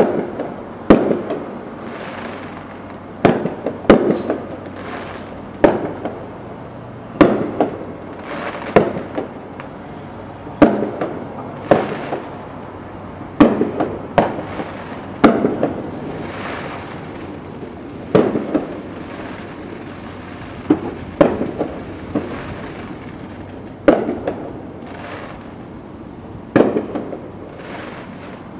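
Distant aerial fireworks shells bursting, a sharp bang every one to two seconds, each trailing off in an echo.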